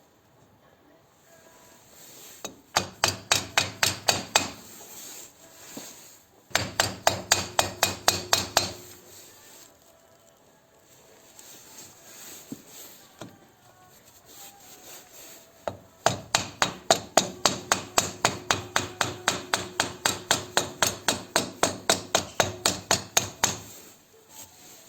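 Hammer tapping rapidly on metal, about five blows a second, in three runs: two of about two seconds and a final one of about seven seconds, each blow with a short ring.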